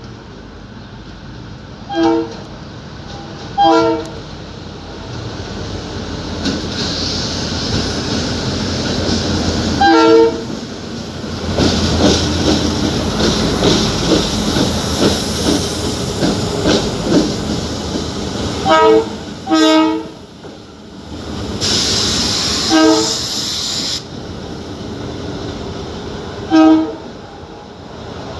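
A train running with a rumble and wheel clatter that builds and then fades, while a horn gives short toots every few seconds, seven in all.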